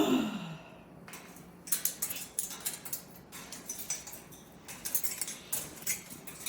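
Cockatoo's beak chewing and clicking on a hard mineral perch, in quick irregular sharp ticks and taps. It opens with a short, loud vocal sound falling in pitch.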